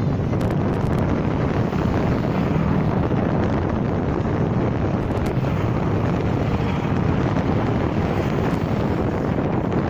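Steady wind noise on the microphone: an even, low rushing rumble with no breaks.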